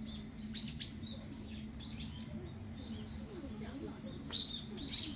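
Small birds chirping repeatedly: short, sweeping high calls about two a second, a little louder near the end, over a steady low hum.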